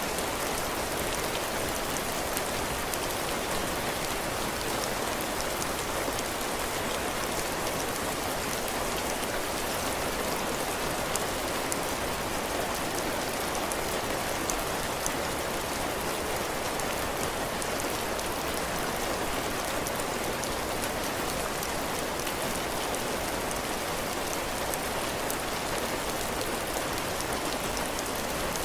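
Heavy rain falling steadily on a porch roof and the ground, with many small drop ticks in the patter.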